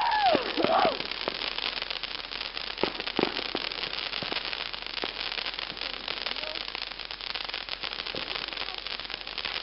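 New Year's Eve fireworks crackling and popping, many small bangs close together without a break, with a few whooping shouts near the start.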